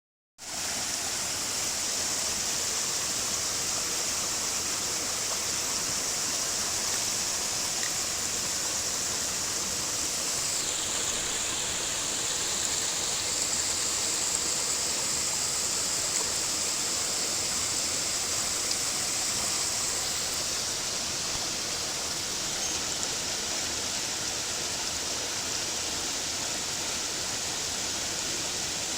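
Mountain stream flowing with a steady rush of water.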